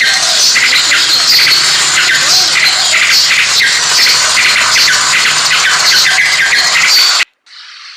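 A dense chorus of many birds chirping and squawking at once, as from a large flock. It is loud and cuts off suddenly about seven seconds in.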